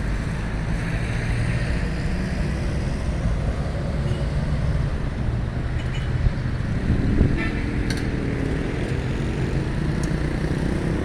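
Street traffic: engines of passing cars running steadily, with one vehicle rising in pitch about seven seconds in.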